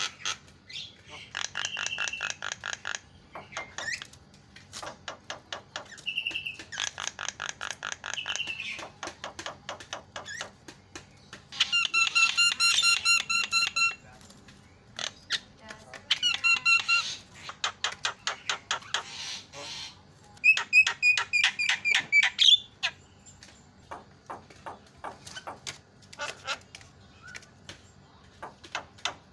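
Javan myna (jalak kebo) calling in bouts of rapid, harsh chattering notes, some bouts carrying clear ringing whistled tones, with short pauses between them.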